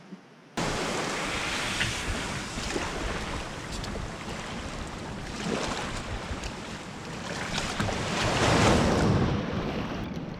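Wind buffeting the microphone and water rushing along the hull of a Hobie Tandem Island sailing kayak under way at sea. It starts abruptly about half a second in, and the water swells louder near the end.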